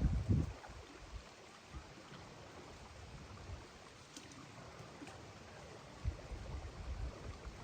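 Steady outdoor background noise with a few low thuds or rumbles, one at the start and more near the end.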